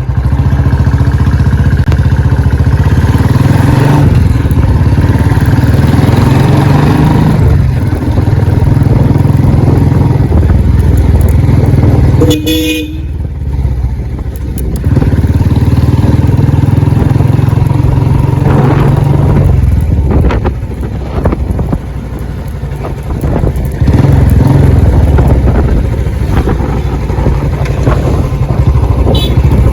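Royal Enfield Bullet Electra's single-cylinder four-stroke engine running loudly, revved up and settling back to a lower idle twice, about twelve and twenty seconds in. A short horn beep sounds about twelve seconds in.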